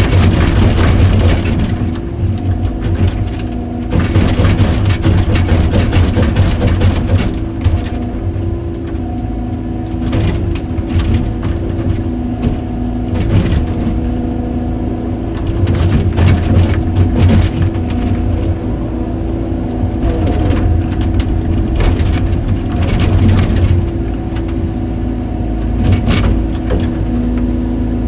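Excavator's diesel engine running steadily, its pitch holding, while repeated bursts of knocking and clatter come every few seconds as the machine works.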